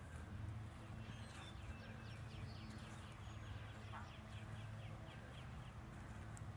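A bird's rapid trill of short, evenly spaced high notes, about five a second, starting a second or so in and lasting about three and a half seconds, over a low steady hum.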